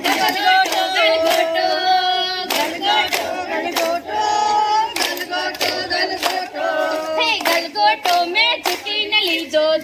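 Voices singing a garba song together, with steady hand claps about twice a second keeping the beat.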